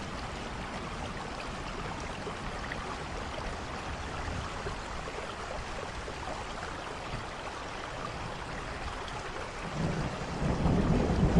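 Steady rainfall, an even hiss of falling rain. A low rumble of thunder swells near the end.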